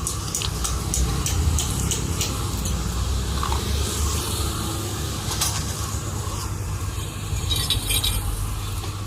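Light metallic clinks and taps, several in the first three seconds and a few later, over a steady low hum.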